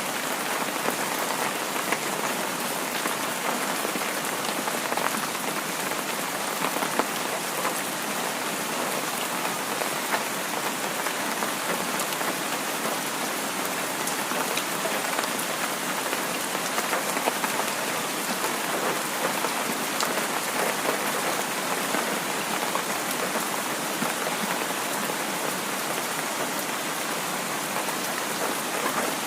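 Heavy rain falling steadily: a dense, even hiss with individual drops ticking through it now and then.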